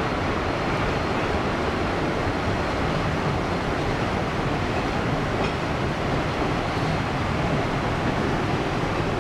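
Train passenger cars rolling past on the track, a steady rumbling noise with no clear beat.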